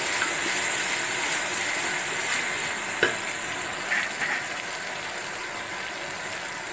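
Onions, ginger-garlic paste and ground spices frying in hot oil in a steel pot: a steady sizzle, with a few light clicks of the stirring spoon against the pot about three and four seconds in.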